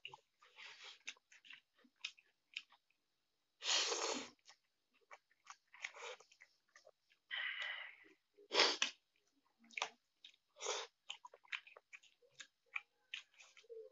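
Close-up mouth sounds of a person eating Maggi instant noodles: wet chewing and smacking in many short clicks, with a few longer, louder noisy mouth sounds about four, seven and nine seconds in.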